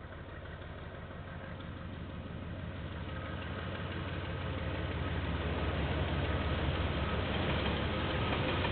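Diesel locomotive engine running with a low, steady drone that grows steadily louder over about six seconds as the train approaches, then holds.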